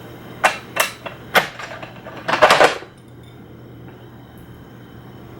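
Kitchenware clinking against a cooking pot: three sharp clinks in the first second and a half, then a short rattling clatter about two and a half seconds in.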